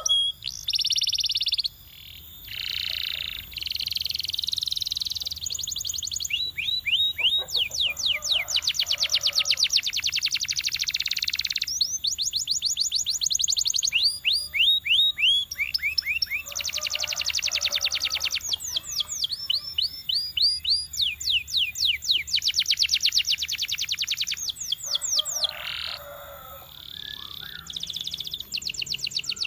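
Domestic canary singing: a string of fast trills of rapidly repeated notes, each run a few seconds long and changing in speed and pitch, with short breaks about 2 seconds in and near the end.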